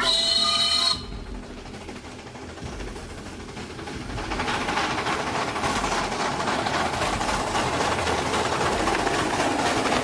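A horn blast lasting about a second, then the rushing noise of a passing train, which grows louder from about four seconds in and stays loud.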